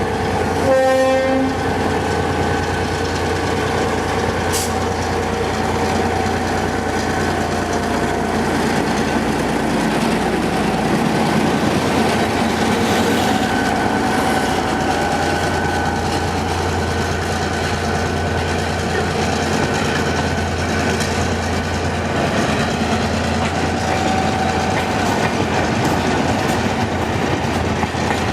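EMD G22 diesel-electric locomotive pulling out of a station, giving a short horn blast about a second in, then its diesel engine running steadily as the train moves off.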